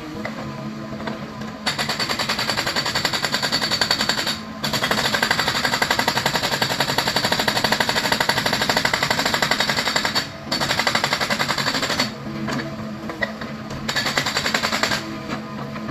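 Excavator-mounted hydraulic rock breaker hammering rock with rapid, fast-repeating blows in several long bursts with short breaks, over the steady running of the excavator's engine.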